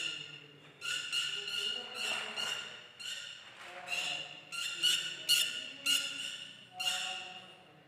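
Bird squawking, a rapid series of short harsh calls about half a second each.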